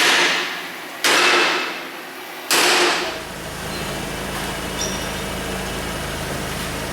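Three heavy bangs about a second apart, each dying away with a hissing ring, followed by a steady low hum.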